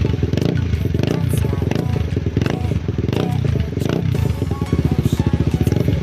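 Motorcycle engine running through a Yoshimura aftermarket exhaust, loud and throbbing. Its pitch rises and falls several times as the throttle is blipped.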